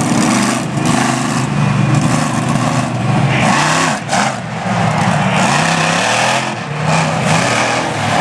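Monster truck engine revving hard, its pitch climbing and falling several times, with brief drops in revs about four seconds in and again near the end.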